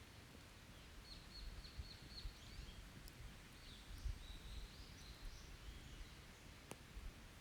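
Faint forest birdsong: a songbird gives a run of short, high, repeated notes, then a longer high phrase. Two sharp clicks are also heard, one about three seconds in and one near the end.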